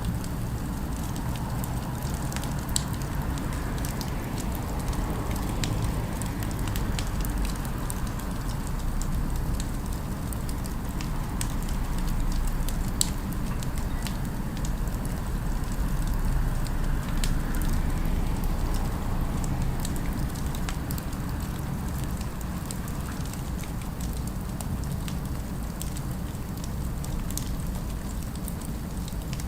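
Fireplace fire crackling, with frequent small sharp pops scattered throughout over a steady low rumble of city ambience.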